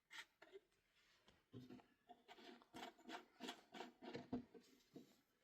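Quiet handling noise: faint, irregular rustles and clicks, several a second, starting about a second and a half in and thinning out near the end.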